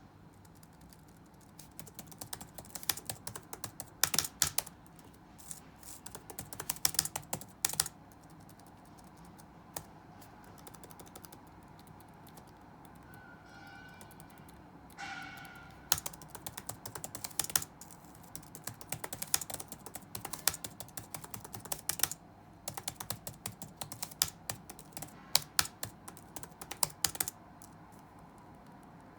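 Typing on a computer keyboard: bursts of quick keystrokes, broken by a pause of several seconds in the middle, with the typing stopping a couple of seconds before the end.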